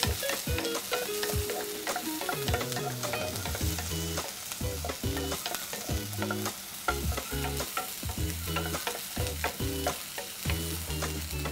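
Chopped onions, garlic, curry leaves and green chillies sizzling in hot olive oil in a nonstick frying pan as they are tempered, stirred with a wooden spatula that clicks and scrapes against the pan throughout.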